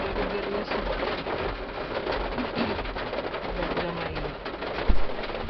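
Rain falling steadily, a dense patter of drops, with a single low thump near the end.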